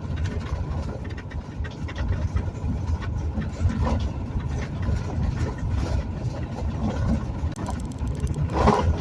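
Road and engine noise of a moving vehicle heard from inside the cabin: a steady low rumble with small rattles, and a short louder sound near the end.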